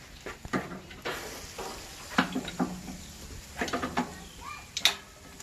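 Sharp clicks and clinks of utensils working at the grill, several in a row, with a few brief low voice-like sounds between them.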